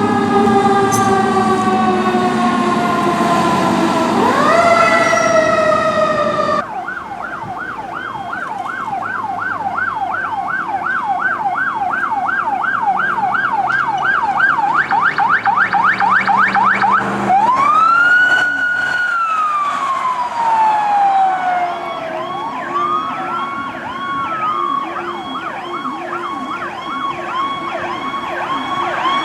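Fire truck sirens. A siren winds slowly down in pitch, sweeps sharply up and cuts off abruptly. Then a rapid electronic yelp runs, broken by one long wail rising and falling about two-thirds of the way through, and several yelp sirens overlap near the end.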